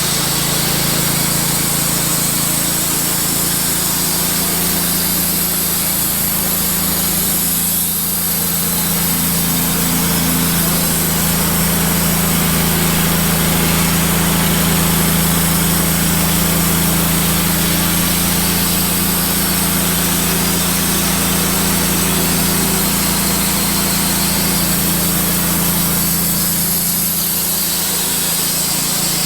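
Wood-Mizer LT15 portable band sawmill running steadily, its band blade cutting through a spalted maple log under a constant engine drone.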